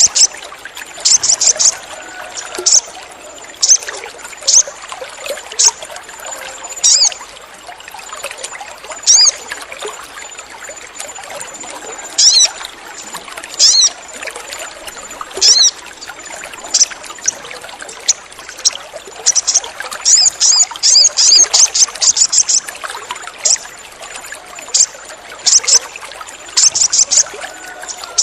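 Sogon bird calling in short, sharp high chirps, sometimes singly and sometimes in quick runs, with one dense burst of chirps about two-thirds of the way in. The calls sit over a steady background of trickling water.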